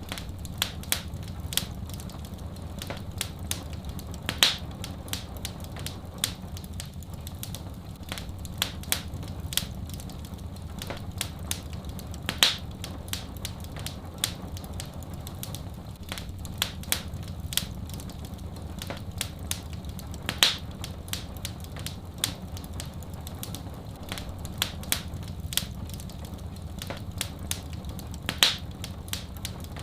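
Fireplace wood fire crackling: a dense run of small snapping crackles over a steady low rumble, with a louder pop about every eight seconds.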